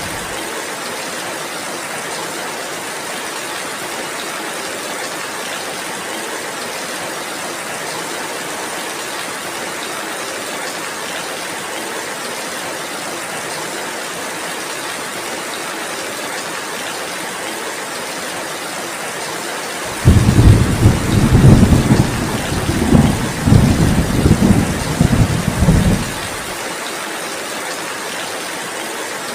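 Steady heavy rain. About two-thirds of the way through, a loud roll of thunder starts suddenly, rumbles low for about six seconds, and stops.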